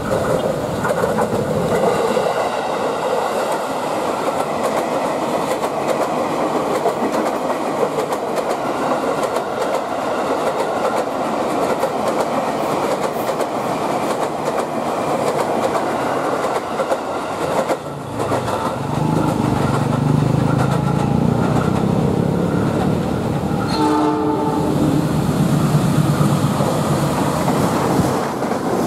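Trains running past on the line: an electric commuter train's wheels and running gear go by. From about two-thirds of the way through, the deep, steady engine sound of a diesel locomotive takes over, and it gives a short horn blast near the end.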